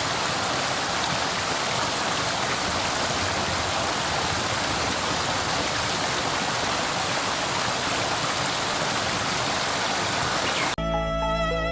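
Rushing water of a stream or waterfall, a steady even hiss that starts and stops abruptly as if cut in.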